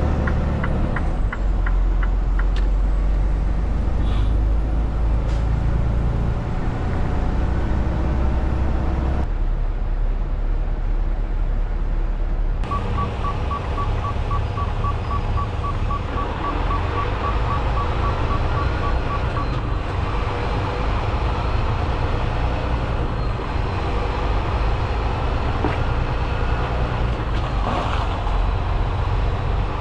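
Semi-truck running, heard from inside the cab: a steady low engine and road drone. A few quick ticks at the start, and a fast run of short electronic beeps for several seconds around the middle.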